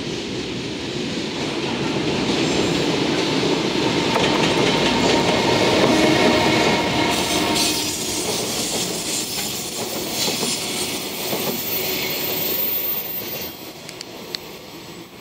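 A freight train passing close by: an EF210 electric locomotive followed by a string of container flatcars. The wheels' rumble on the rails builds to its loudest about six seconds in as the locomotive goes past, then the flatcars roll by with wheel-and-rail clatter, fading near the end.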